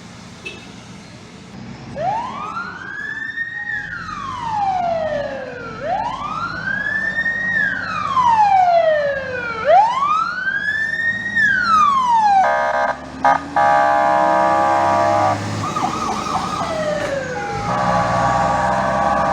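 Fire engine siren sounding three slow wails, each rising and then falling in pitch over about four seconds. About two-thirds of the way through it switches to a steady blaring horn tone. The horn breaks off twice briefly, wavers, slides down once, then resumes steadily near the end.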